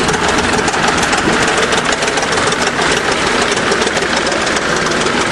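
1953 International TD20 crawler bulldozer's diesel engine idling steadily with a rapid clatter.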